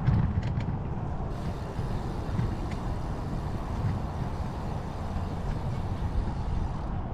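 Wind buffeting a bike-mounted camera's microphone, with rolling tyre and road noise from the moving bicycle as a steady low rumble. A few light clicks come in the first second.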